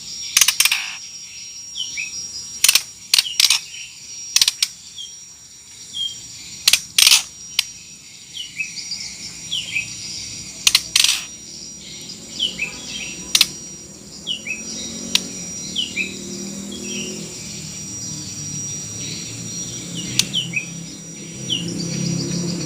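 White-rumped shama giving its harsh 'kretekan' calls: loud, sharp clicks at irregular intervals, with many short, downward-slurred chirps in between. This call is used to provoke a shama that has stopped singing into answering.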